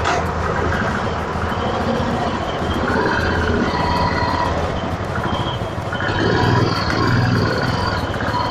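Engines of the ferry and motorbikes running steadily with a low hum as two-wheelers are moved off the boat, with a busy mix of higher calls and tones over it.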